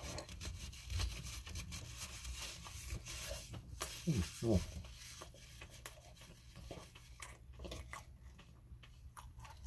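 Close-miked chewing of a mini doughnut, with soft wet mouth clicks and smacks. About four seconds in, two short vocal hums fall in pitch.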